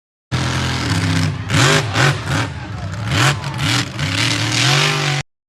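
Monster truck engine revving hard again and again, its pitch climbing and dropping several times with rough surges of noise at the peaks. The sound cuts off suddenly near the end.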